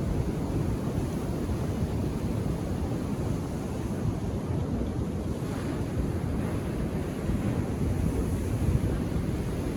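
Indian Ocean surf washing steadily onto a beach, calm waves breaking, with wind rumbling on the microphone. A wave's wash swells a little brighter about halfway through.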